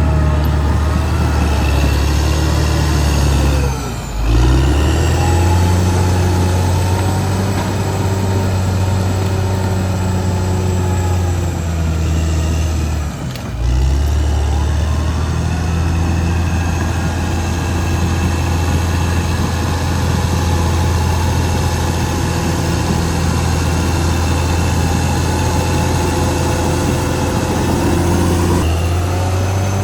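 Caterpillar D6R XL bulldozer's diesel engine running loud and steady with a high whine over it, briefly dropping off twice, about four and thirteen seconds in, then picking back up.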